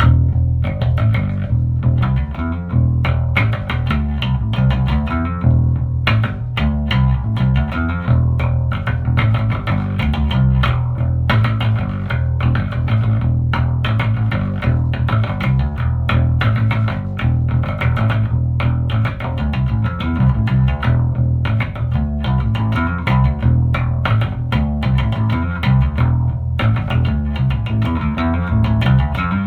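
Electric bass guitar played through a Lanzi Tornado 4001 bass amplifier: a continuous line of plucked notes, heavy in the low end.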